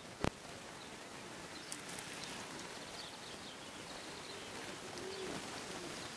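Birds chirping faintly over steady background noise, with a single low coo about five seconds in. A sharp click sounds just after the start.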